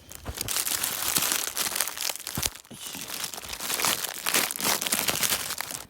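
Plastic packaging of frozen udon being crinkled and handled as the pack is opened, a loud crackling with a short lull about halfway through.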